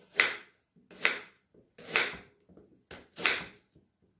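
Knife cutting fresh ginger root into small pieces on a cutting board: four sharp slicing strokes about a second apart, each ending in a knock on the board.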